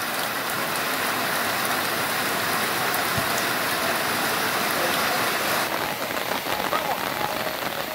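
Steady rain falling, a continuous hiss that turns a little softer and more uneven about six seconds in.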